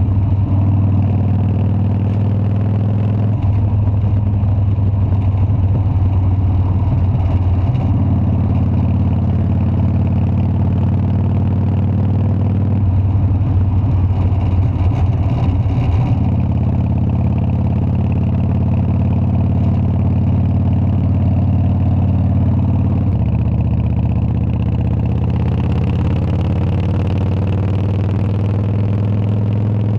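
Harley-Davidson Dyna's V-twin engine running steadily, its note shifting in steps several times as the engine speed changes.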